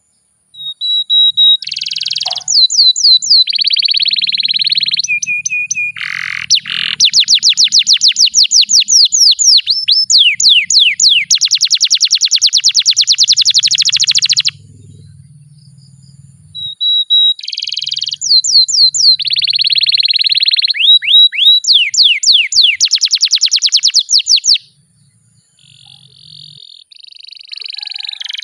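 Canary singing a long rolling song of rapid trills of repeated notes and quick downward-sweeping whistles. It comes in two long bouts with a short break about halfway, then softer notes near the end.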